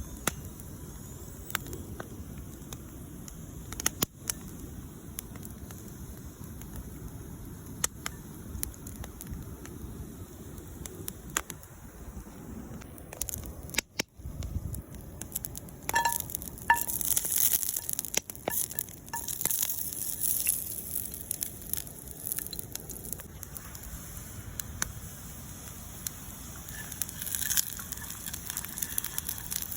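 Campfire crackling, with scattered sharp pops and snaps that come thicker about halfway through.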